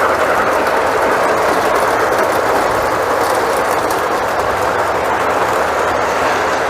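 Lionel model train running on the layout's track: a steady rumbling whir of the wheels and motor on the rails, with a faint clickety-clack.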